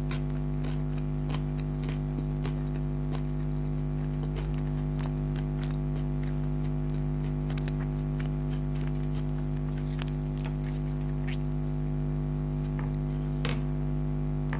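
Close-miked eating of chicken karahi and naan: irregular chewing and mouth clicks, with a few louder crunchy bites near the end. A steady low electrical hum runs underneath.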